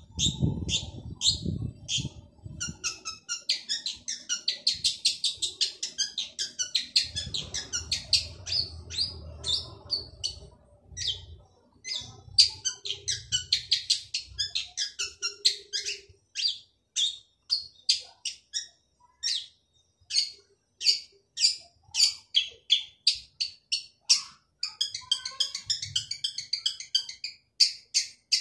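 Male long-tailed shrike singing hard: fast runs of sharp, chattering high notes, settling in the second half into a steady string of loud single notes about two or three a second.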